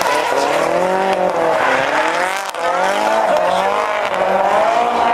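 Nissan S15 drift car's Tomei-built turbo engine revving hard, its pitch rising and falling repeatedly as the tyres squeal through a drift. The revs drop briefly about two and a half seconds in, then climb again.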